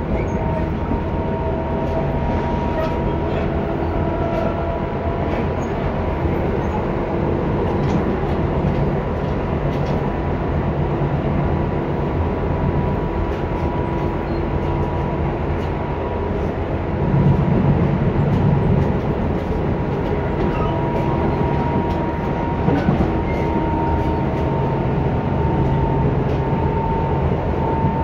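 Tobu 10030 series electric train running at speed, heard from on board: a steady rumble of wheels on rail with a few steady whining tones from the drive. The low rumble swells louder for a couple of seconds a little past the middle.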